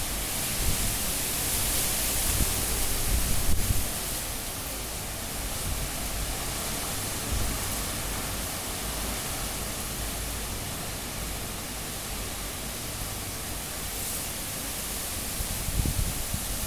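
Cyclone-force wind blowing hard. Heavy gusts buffet and rumble during the first four seconds, followed by an even, steady rush, with another gust near the end.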